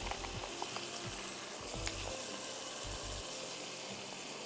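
Chicken cubes with butter, garlic and blended tomatoes sizzling steadily in a wok, with a few light clicks of a plastic sauce sachet being handled in the first second.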